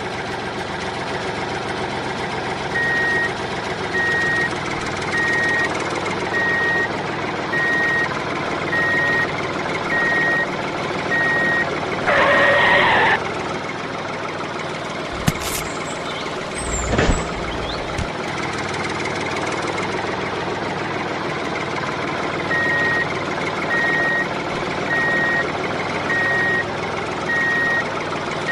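Vehicle engine running steadily with a reversing alarm beeping at an even pace, about once a second, for several seconds at a time. A short loud blast comes about twelve seconds in and again at the very end.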